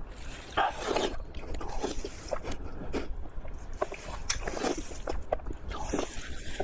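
A person biting and chewing food, with irregular short mouth clicks and smacks.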